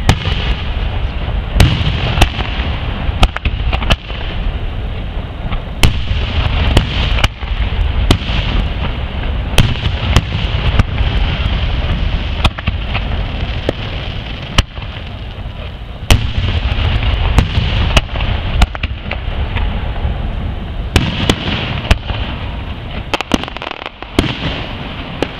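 Aerial fireworks display: shells bursting in a steady run of booms and sharp cracks, over a continuous low rumble.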